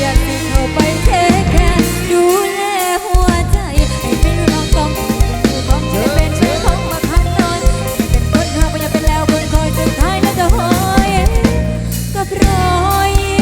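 Live band playing amplified music: drum kit keeping a steady beat, a stepping bass line and a bending lead melody, with the bass and low end dropping out briefly about two seconds in.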